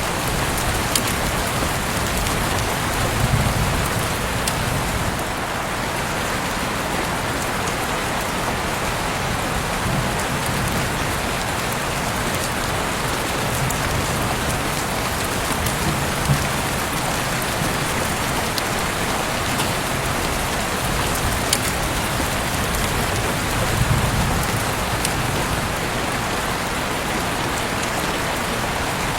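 Heavy rain falling steadily, a dense even hiss with sharp drop taps now and then and soft low swells every few seconds.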